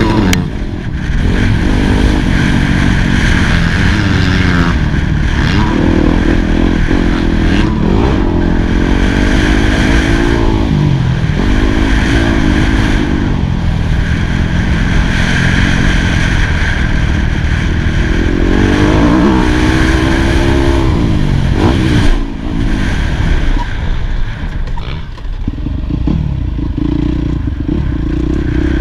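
Yamaha YZ250F four-stroke single-cylinder motocross engine being ridden hard, revving up and dropping back over and over as the throttle opens and closes, its pitch climbing and falling every few seconds.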